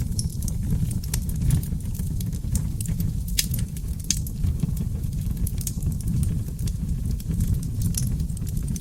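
Wood fire of oak logs burning in a fireplace: a steady low rumble of flames with scattered crackles and pops, two of them sharper about three and a half and four seconds in.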